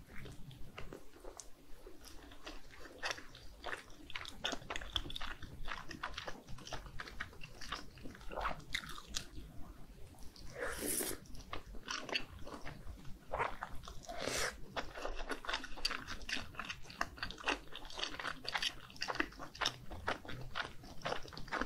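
Close-miked eating of skewered spicy red fish cake: bites into the chewy fish cake followed by steady chewing, a dense run of small irregular clicks and smacks.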